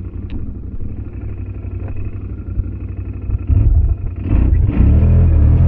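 ATV engine running at low throttle, then revving up about three and a half seconds in, the pitch rising as it pulls away.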